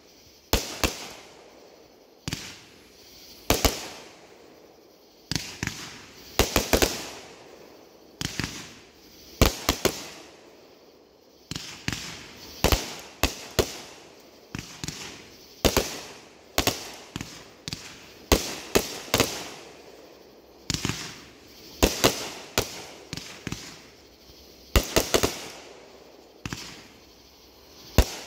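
Aerial fireworks going off in a steady series of sharp bangs, about one to two a second, often in close pairs or clusters, each dying away quickly.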